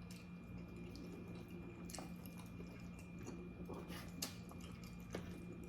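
Faint chewing and mouth sounds from someone eating, with a few soft wet clicks, over a steady low electrical hum.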